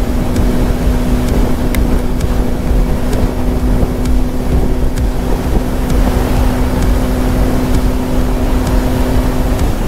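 Bajaj Pulsar 150's single-cylinder engine running at a steady cruising speed, one even note that stops just before the end, with wind rushing on the microphone.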